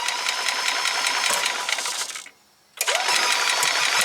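Yamaha golf cart's starter-generator cranking the gas engine over in two runs of about two and a half seconds each, with a short gap between, each opening with a rising whine that then holds steady. The repaired starter is turning the engine over as it is supposed to.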